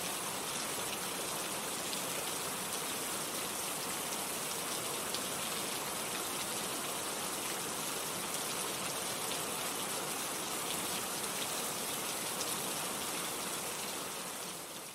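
Steady heavy rain: an even hiss with scattered drop ticks, fading down just before the end.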